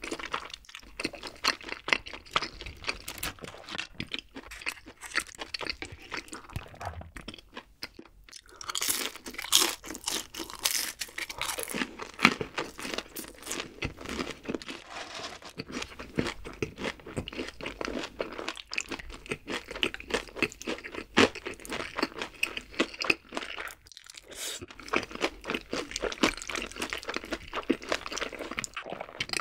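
Close-miked eating: chewing and crunching of batter-fried chicken feet and rosé tteokbokki rice cakes, a dense run of crisp crackles with two short pauses, about a third of the way in and again near the end.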